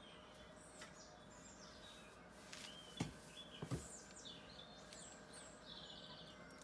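Songbirds chirping and warbling, many short calls overlapping, faint over a steady hiss. Two short soft knocks come about three seconds in, the louder first.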